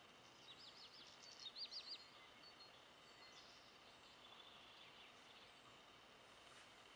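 Faint outdoor quiet with a small bird singing: two quick runs of high chirps between about half a second and two seconds in, then a few fainter calls, over a steady faint hiss.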